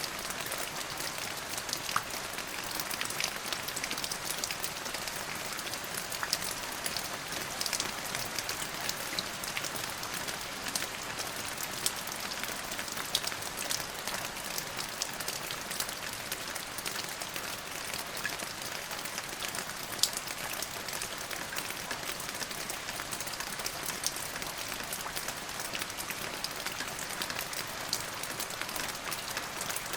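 Steady rain falling on a hard surface, with many sharp individual drop hits ticking through the hiss; a few land louder, the loudest about twenty seconds in.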